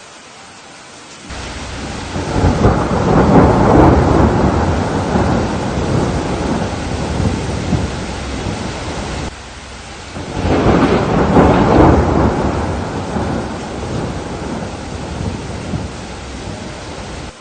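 Steady rain with two long rolls of thunder. The first breaks in suddenly about a second in, swells, then slowly fades. The second starts about ten seconds in and fades again towards the end.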